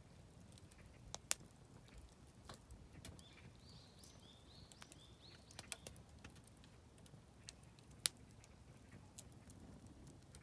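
Oak firewood crackling in a campfire: scattered small pops, with two sharper snaps about a second in and about eight seconds in. A bird sings a short run of high notes about three to five seconds in.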